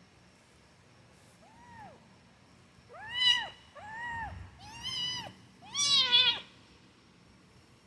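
Kitten meowing: five short, high meows, each rising and falling in pitch. A faint one comes about two seconds in, then four louder ones follow in quick succession, the last the loudest.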